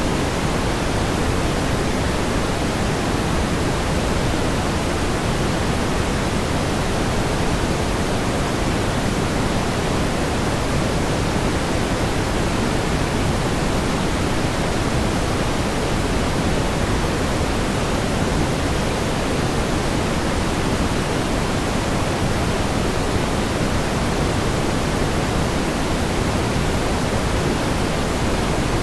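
Steady pink noise: an even, unchanging hiss weighted toward the low end, with no events or changes.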